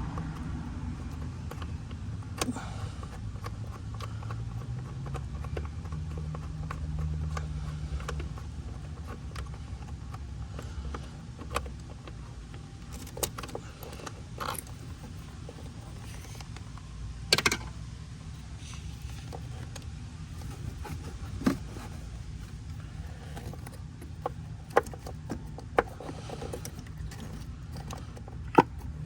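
Scattered sharp clicks and knocks of hand tools and parts being handled while the ignition coil is worked out of a Ford 5.4 V8, over a steady low hum.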